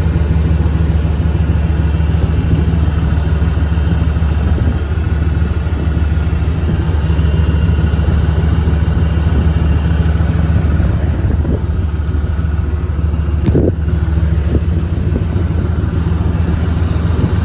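Ford 460 big-block V8 in a 1997 F350 dump truck running at a steady idle.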